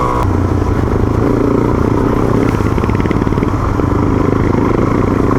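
Off-road motorcycle engine running at a steady throttle while riding, with a fast, even firing pulse and a low rumble.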